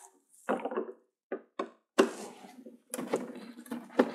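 A series of short knocks, clicks and clatters as the TV's casing and parts are handled during disassembly, with a sharper hit about two seconds in and a quicker run of rattling clicks near the end.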